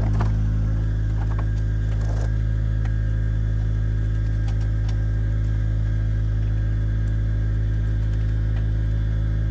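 An engine running steadily at a constant speed, with a few light clanks in the first couple of seconds.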